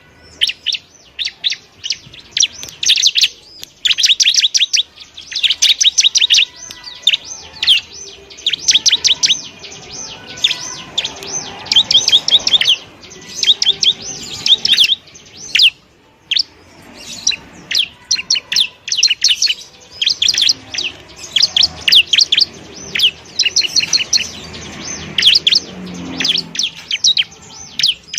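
Bar-winged prinia (ciblek) singing: bursts of rapid, high chattering trills, phrase after phrase with short gaps between them.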